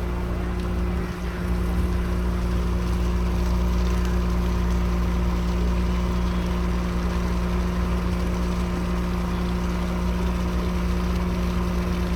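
An engine running steadily at a constant speed, a low drone with a steady hum in it.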